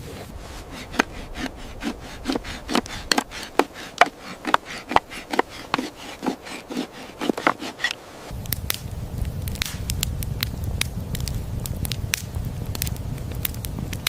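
Repeated knocking and scraping strokes, about two or three a second, for the first eight seconds. Then a steady low rumble begins, with scattered sharp crackles over it.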